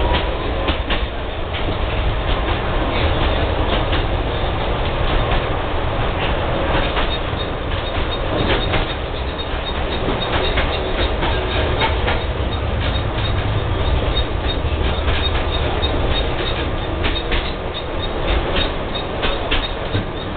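Tatra tram running along the track, heard from the driver's cab: a steady low rumble with frequent clicks and rattles as the wheels run over the rails.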